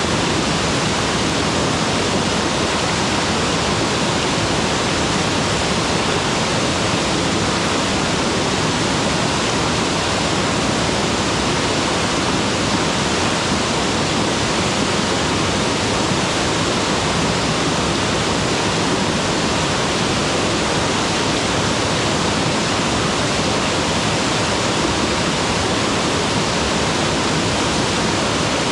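Mountain waterfall, water falling and rushing in a loud, steady, unbroken roar of noise.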